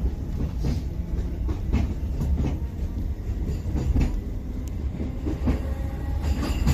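Running noise heard from inside a moving passenger train carriage: a steady low rumble with irregular clicks and knocks from the wheels on the track.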